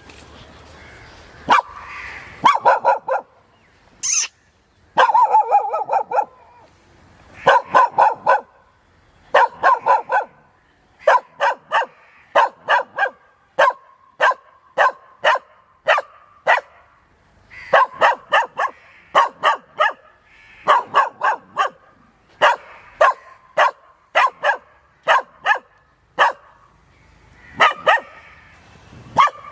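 A dog barking over and over, in runs of several quick barks with short pauses between.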